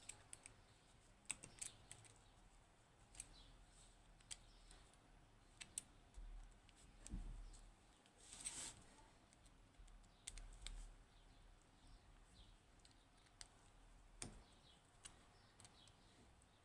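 Faint, scattered light clicks and taps of a small lock and hand tools being handled, with a couple of short rubbing sounds about seven and eight and a half seconds in.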